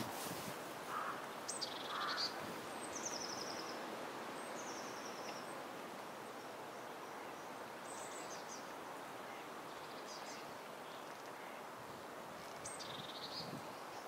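A bird calls again and again, high and thin, every couple of seconds: each call is a quick falling note that runs into a short buzzy trill. Under it is a steady outdoor hiss.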